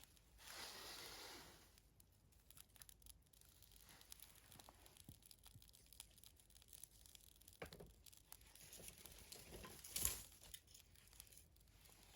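Freshly lit wood fire crackling faintly as the kindling catches, with scattered small ticks and pops, a soft rush of noise early on and a sharper snap about ten seconds in.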